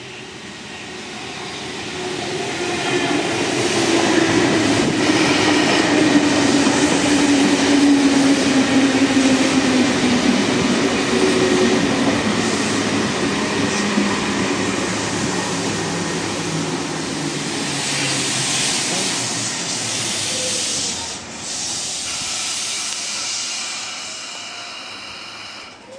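CityRail R21 double-deck electric train arriving and braking to a stop at the platform. It grows loud as it runs past, with a motor whine that falls steadily in pitch as it slows, over rushing wheel noise. It then stands with a steady hum.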